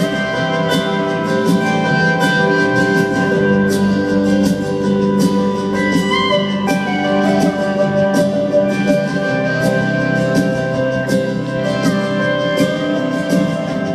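Rock band playing live, instrumental with no vocals: sustained guitar and keyboard chords over a steady drum beat.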